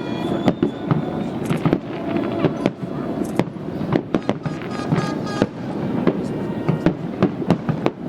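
Fireworks display: aerial shells bursting in a quick run of sharp bangs, more closely bunched near the end.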